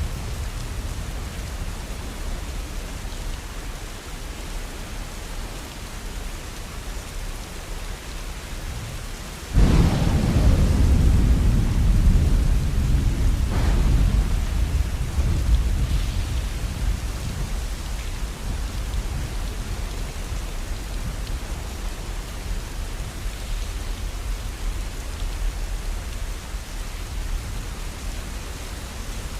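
Steady rain falling, with a sudden thunderclap about a third of the way in that rolls into a low rumble and fades slowly, and a second, weaker crack a few seconds later.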